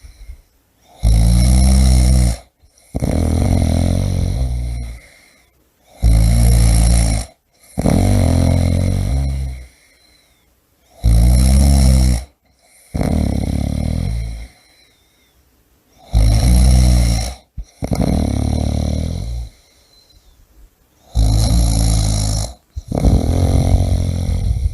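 A person snoring steadily in slow, regular breaths, about five cycles here. Each cycle is a loud, low, rattling snore of about a second and a half, followed by a softer, longer breath and a short pause.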